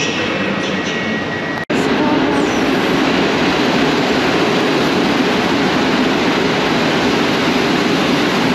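Steady rumble and hiss of a train in a railway station. A thin high whine over it stops at a sudden, momentary dropout just under two seconds in, after which the rumble comes back louder and holds steady.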